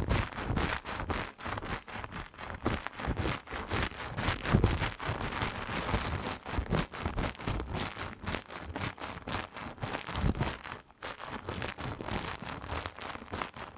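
Close-microphone ASMR haircut sounds: dense, irregular crackling and rustling right at the microphone, with no steady rhythm.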